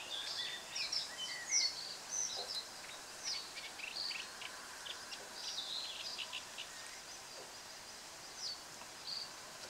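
Birds calling: many short, high chirps that slide downward, coming thick and fast at first and thinning out after about seven seconds, over a faint outdoor hiss.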